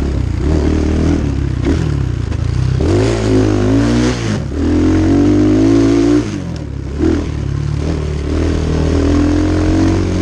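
Templar 250cc dirt bike's engine revving hard under throttle. The pitch climbs twice in quick succession, drops as the throttle is chopped about six seconds in, then pulls steadily again.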